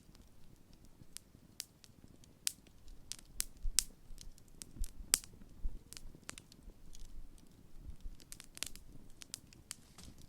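Large wood campfire burning, with irregular sharp crackles and pops over a low steady rumble of the flames.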